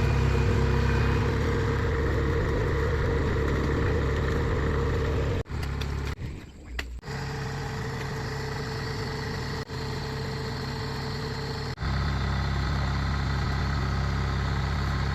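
A heavy machine's engine running steadily. About five seconds in, the sound drops abruptly for roughly a second and a half, and it breaks briefly twice more later on.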